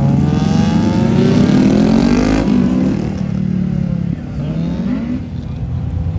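A performance car's engine revving as it accelerates away. The pitch climbs for about two and a half seconds, drops sharply at a gear change, then climbs again.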